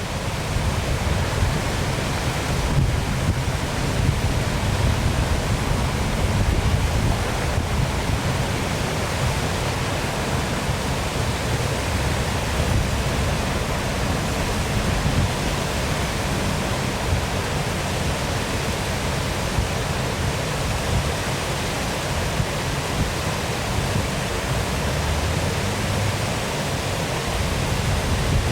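Waterfall rushing: a steady, even wash of falling water with a fluttering low rumble underneath.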